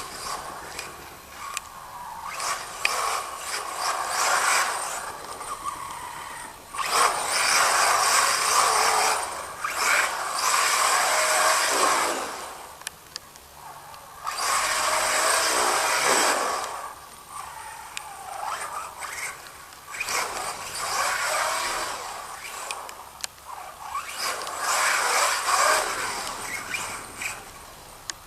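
Brushless-powered Associated RC8T-E 1/8-scale electric truggy driving on wet ground, its motor whining up and down in repeated bursts of throttle with the hiss of the tyres in between.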